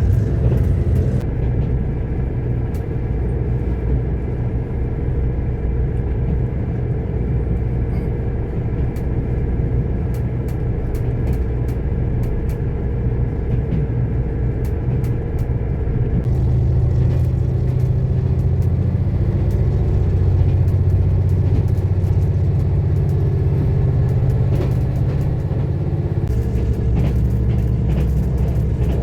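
Diesel train running, heard from inside the carriage: a steady low engine and wheel rumble that grows a little louder about halfway through.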